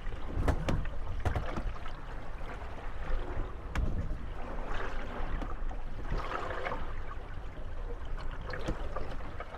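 Moored gondolas rocking on choppy water: their wooden hulls knock and creak against each other and the landing, several sharp knocks over steady lapping and sloshing water.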